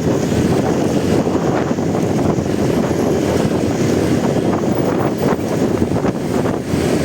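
Steady wind buffeting on a motorcycle-mounted camera's microphone while riding, with the motorcycle's engine and road noise underneath.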